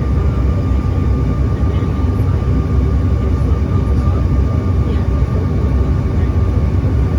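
Steady cabin noise inside a regional airliner: a loud, even low rumble of the engines and airflow, with a steady high whine running through it.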